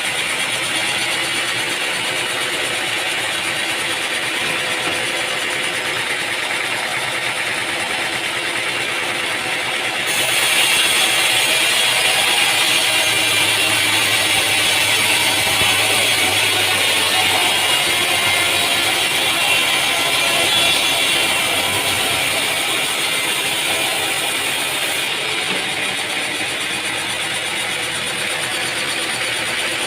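Machinery running steadily. It grows louder and hissier about a third of the way in for roughly fifteen seconds, then settles back.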